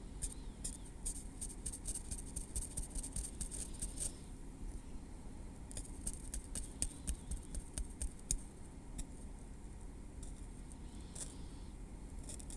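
Tweezers working through hair at the scalp: quick runs of small, sharp, high clicks and ticks, thinning out after about nine seconds.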